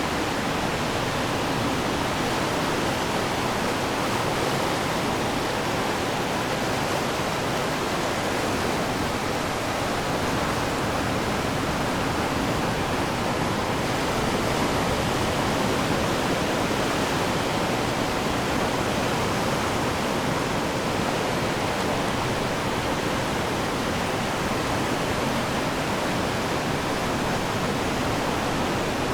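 Ocean surf as a steady, even rushing wash, with no single wave breaks standing out.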